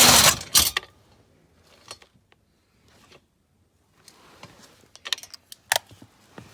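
A loud rustling scrape at the start, then small metallic clicks and clinks, clustered near the end, from a socket wrench working on the bolts of a blend door actuator.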